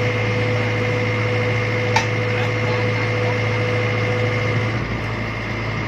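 A vehicle engine drones steadily, with a single sharp click about two seconds in.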